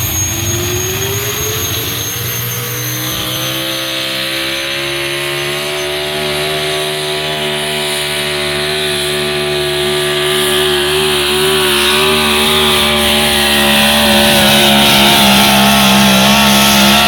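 Chevrolet pulling truck's engine at full throttle under load, dragging the pulling sled. Its pitch climbs over the first few seconds, then holds high and steady with a slight waver, growing a little louder near the end.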